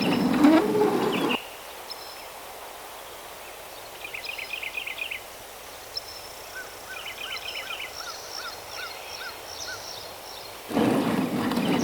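Birds chirping and calling in short trills, with a run of evenly repeated chirps in the middle. A louder rushing noise covers the first second and a half and comes back near the end.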